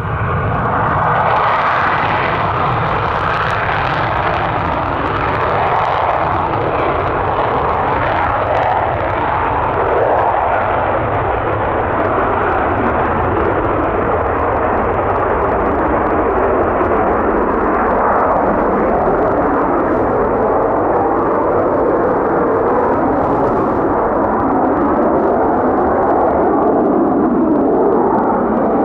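An aircraft taking off at full power: a loud, steady engine roar that swells in the first second and then holds.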